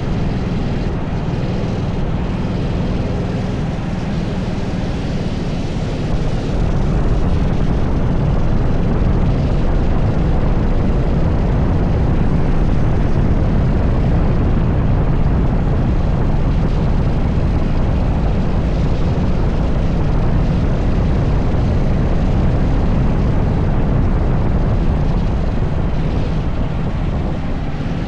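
80cc go-kart engine running hard on track, a loud continuous engine noise that gets a little louder about six seconds in.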